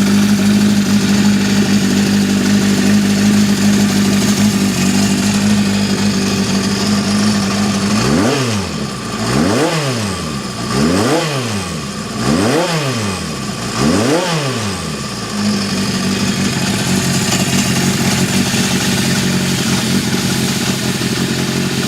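Honda CB750F II's inline-four engine idling steadily, then blipped five times in quick succession about eight seconds in, each rev rising and falling back, before settling into idle again.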